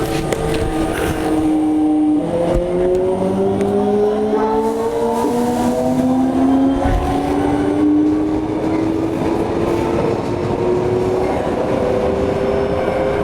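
Toei 5300 series electric train heard from inside the car: the pitched whine of its inverter and traction motors dips briefly, then climbs steadily as the train picks up speed, over the rumble of the wheels on the track.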